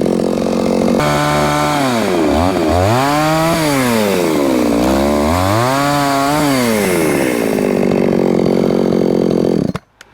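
Two-stroke chainsaw cutting firewood logs, the engine pitch sagging several times as the chain bites into the wood and rising again as it frees. The sound cuts off suddenly near the end.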